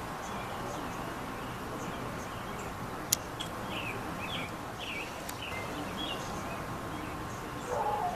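Small birds chirping: a run of short, repeated chirp notes, several a second, over steady outdoor hiss. A single sharp click about three seconds in is the loudest sound.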